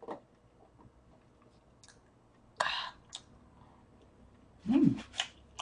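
A person eating close to the microphone: chewing and small mouth clicks, a short loud hiss about two and a half seconds in, and a brief rising-then-falling sound from the voice near the end.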